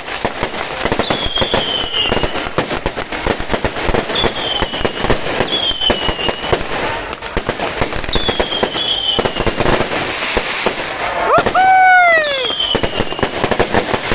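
Dense, continuous fireworks going off: a constant crackle of bangs, with short falling whistles every second or two. A louder whistle about three-quarters of the way in rises, then falls in pitch.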